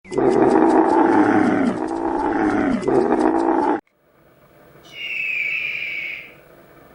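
A large animal calling loudly: two long calls, each falling in pitch, cut off suddenly, then after a short gap a single higher, steady call lasting about a second.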